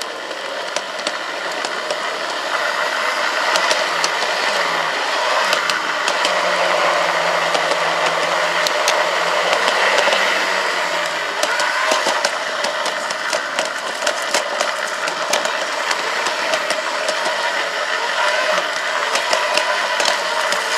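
Garden-railway locomotive running along its track, heard from on board: a steady running rattle with frequent sharp clicks from the wheels on the rails, building up over the first few seconds.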